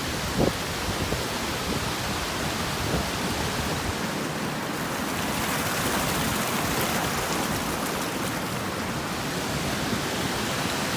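A steady rushing hiss with no distinct tones, with a short knock about half a second in.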